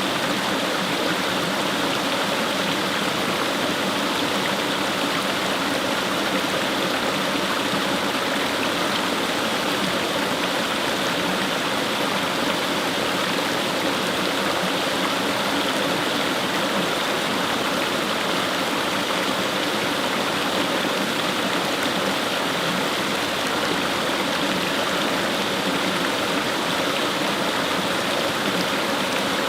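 Fast-flowing stream rushing and babbling over stones, a steady, unbroken water noise.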